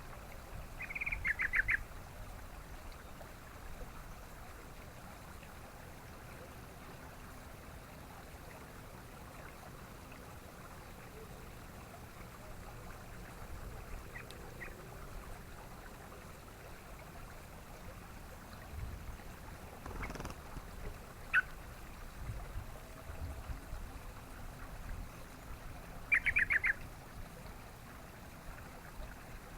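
Yellow-vented bulbul calling: a short burst of rapid, chattering notes about a second in and another near the end, with a lone note in between. A steady low background noise runs underneath.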